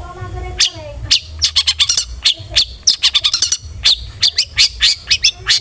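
Long-tailed shrike (cendet) calling: a brief harsh squawk, then from about half a second in a fast string of short, sharp chattering notes.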